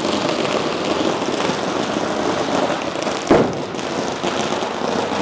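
Long string of firecrackers going off in a rapid, dense crackle, with one louder bang about three seconds in.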